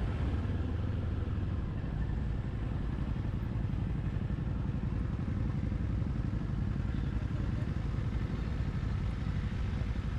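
Motorcycle running steadily while being ridden: a continuous low engine and road rumble.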